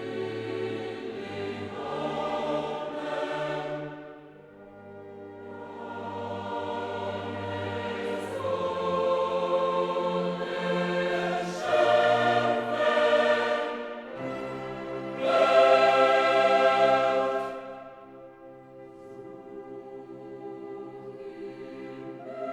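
Background music: a choir singing a slow classical piece in sustained phrases with an orchestra beneath, swelling loudest about two-thirds of the way through.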